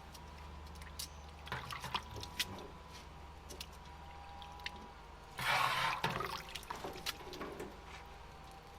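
Water pouring and dripping, with small clicks and knocks and a louder rush of pouring water about five and a half seconds in.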